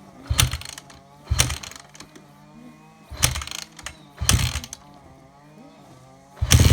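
Honda CRF150R dirt bike being kick-started: four kicks, each turning the engine over briefly without catching, then about six seconds in it fires and keeps running loudly.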